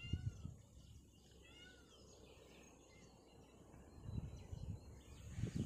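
Quiet field ambience with a bird giving short arched chirps, a couple near the start and again about two seconds in. Low muffled rumbling comes in about four seconds in.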